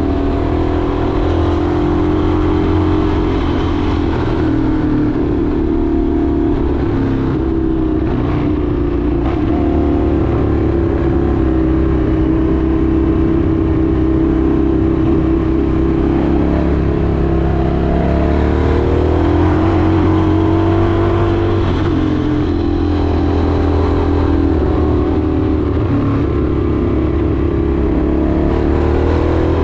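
Indian FTR 1200's V-twin engine running steadily while riding, its pitch rising and falling gently with the throttle.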